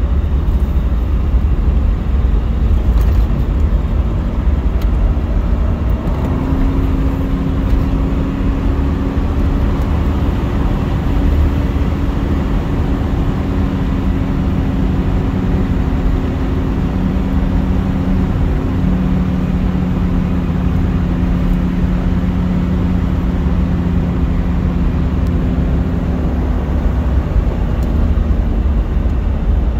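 1973 Mercedes-Benz 450SL's 4.5-litre V8 running at a steady cruise, heard from inside the cabin over constant low road and tyre rumble. The engine note steps up about six seconds in, holds steady, and eases off near the end.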